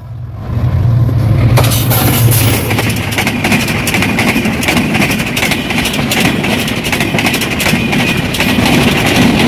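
A Bangladesh Railway train passes at speed. A low locomotive engine drone gives way, about two seconds in, to a loud, rapid clatter of wheels over the rail joints that carries on to the end.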